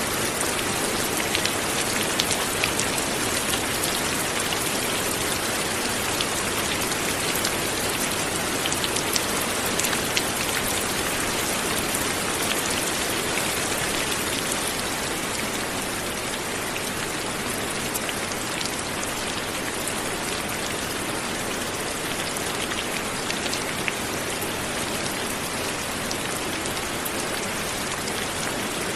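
Light rain falling steadily, a dense even patter with individual drops ticking here and there.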